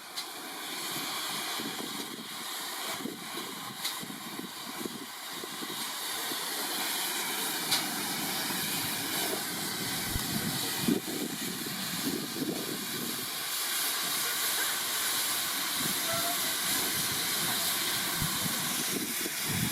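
Railway locomotive with a steady hiss that slowly grows stronger, with a few faint knocks.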